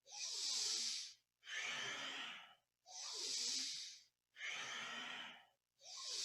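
Deep, powerful breaths through the nose, paced with cat-cow spinal flexing: an inhale into cow pose, an exhale into cat. Five hissing breaths come at a steady pace of about one every 1.4 seconds, each lasting about a second, with brief pauses between.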